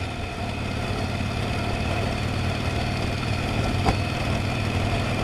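Motorcycle engine running steadily at low revs, with a single short click about four seconds in.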